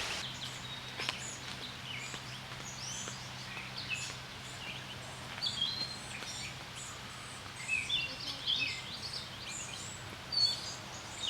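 Many short bird chirps and calls, scattered and overlapping, over a steady low hum and a faint hiss; the calls grow busier in the second half, the loudest near the end.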